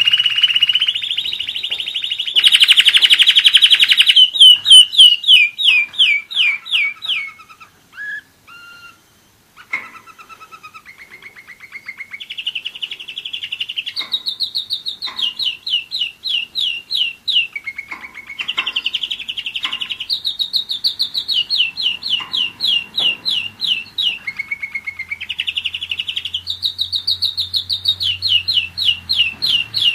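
German roller-split canary singing a long song of rapid trills, each a run of quickly repeated falling notes. It breaks off briefly about eight seconds in, with a few soft notes, then resumes with further trill runs.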